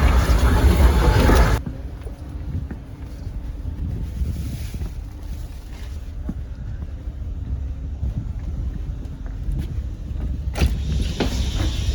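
A moving passenger train: the loud rush of wheels and running gear in the vestibule between cars cuts off sharply about a second and a half in, as the door to the carriage shuts. A quieter low rumble with light clicks follows inside the car. Near the end, the noise swells again with a few sharp knocks as the next door opens.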